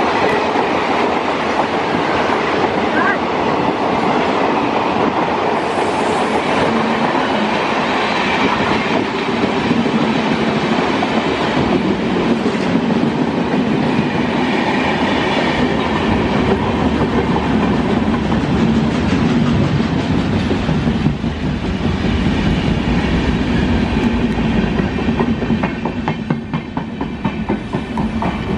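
Passenger train coaches running past close by: a steady loud rumble with wheels clattering over rail joints. Near the end the rumble eases as the last coach goes by, leaving a regular clicking of wheels over the joints.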